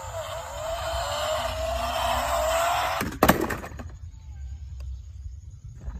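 Revving car-engine sound rising slowly in pitch for about three seconds, then broken off by one sharp, loud bang.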